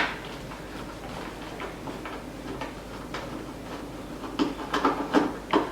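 Faint scattered clicks and handling noise of a screw being undone on the electric unicycle's plastic side panel. There is a sharp click at the very start and a few small clicks near the end.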